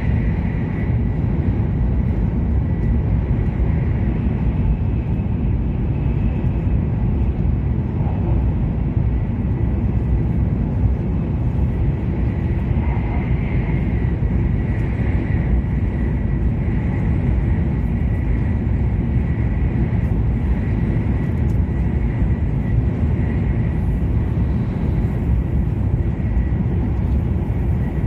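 Interior running noise of an E7 series Shinkansen at speed: a steady low rumble and rush of air and wheels, with a faint steady high tone above it.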